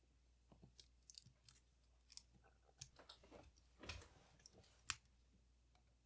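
Faint, scattered clicks and light scrapes of small metal tools and parts being handled while a Leica IIIF camera is taken apart, with one sharper click about five seconds in.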